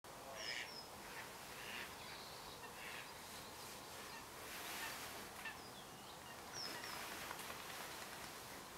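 Faint pond ambience with distant wild bird calls: a pair of short high chirps about half a second in and again near seven seconds, among other faint calls.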